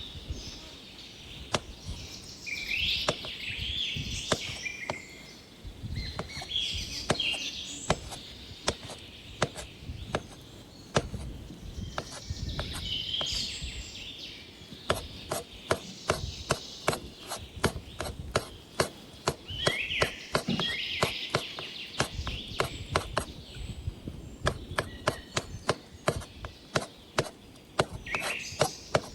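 Knife chopping on a cutting board: scattered strokes at first, then a fast, steady run of chops from about halfway through. Birds chirp and sing in the background.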